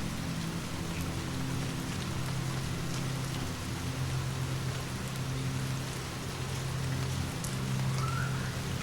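Steady rain falling, over a low steady rumble, with a few faint clicks scattered through it.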